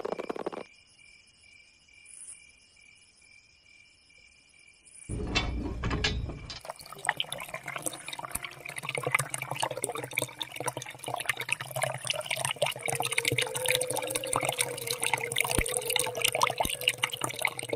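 A small machine's mechanism clicking and rattling rapidly and unevenly, starting with a low thump about five seconds in, after a few seconds of near silence; a steady tone joins it in the second half.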